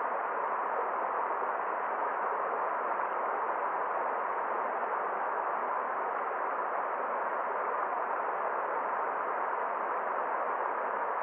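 Steady rushing of a forest stream: an even, unbroken hiss with no separate splashes or drips standing out.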